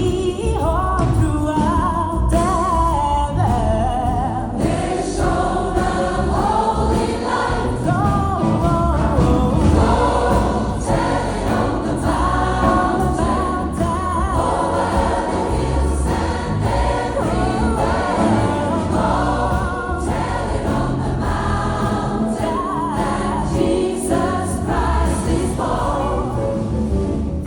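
A gospel choir singing with band accompaniment, with a strong beat in the low end.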